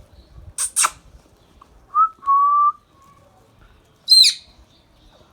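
Indian ringneck parrot calling: two quick harsh squawks, then a clear two-part whistle, a short rising note and a held one, and a sharp high chirp near the end.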